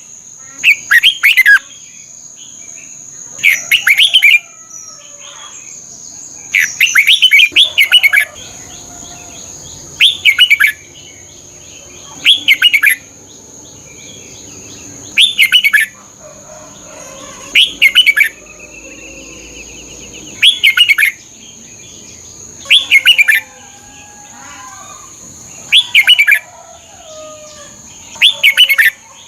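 Red-whiskered bulbul singing: short, loud, bubbling phrases repeating about every two and a half seconds, with fainter bird calls in between.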